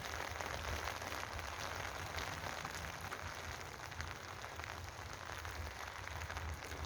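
Steady rain falling: an even hiss full of small drop ticks, over a low rumble.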